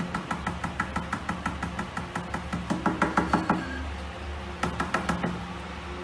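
A finger tapping quickly on a glass tabletop, about six light, ringing taps a second. The tapping stops a little past halfway, then comes back in a short run.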